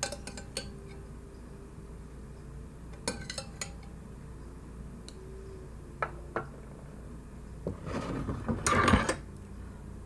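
Metal spoon clinking against a soup bowl: a few separate clinks, then a louder run of clinks and scraping near the end.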